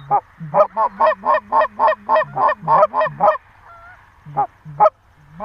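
Goose calls blown rapidly in imitation of Canada geese, a fast run of about a dozen honks, each breaking from a low note into a high one, then two single honks near the end. Faint calls of distant real geese sound in the gaps.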